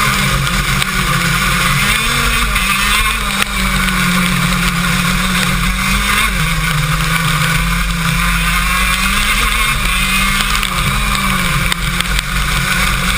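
KZ2 shifter kart's 125 cc two-stroke engine running hard, its pitch rising and falling as it accelerates and slows, with a big drop about six seconds in. A constant hiss runs under it.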